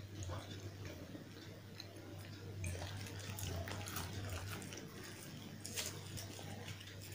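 Close-miked ASMR eating sounds: wet chewing and mouth clicks of someone eating puri with potato curry, the clicks thickest in the middle, over a steady low hum.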